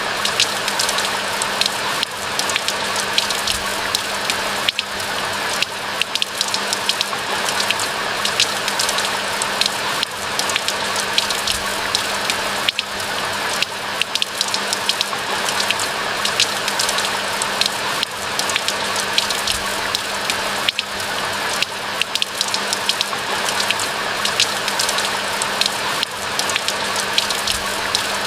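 Steady rain: a dense even hiss thick with sharp individual drop hits, and a steady low hum beneath.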